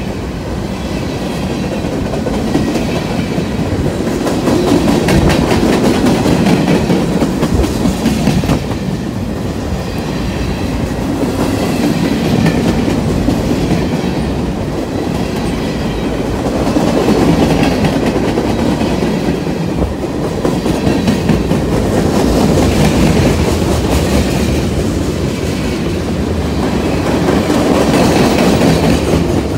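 A train rolling past at close range: a continuous rumble of wheels on rail with a clickety-clack of wheels over the joints, swelling and easing every few seconds as the cars go by.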